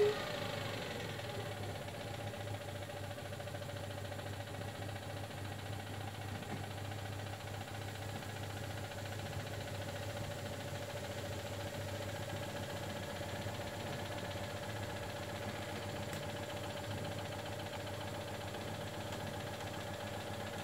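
Citroën Dyane's air-cooled flat-twin engine idling steadily while the car stands stuck on a steep dirt climb. A rev dies away right at the start.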